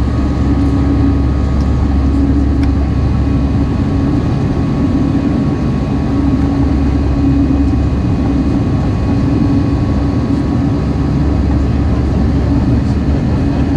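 Airbus A319 jet engines giving a steady, even drone with a constant low hum.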